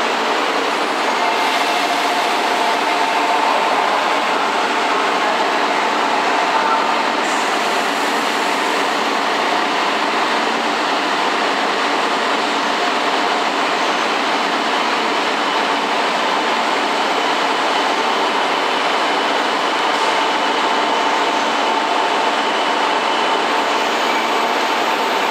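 Steady running noise of E2 series and E3 series Shinkansen trains at a station platform, with a faint, steady whine held through it.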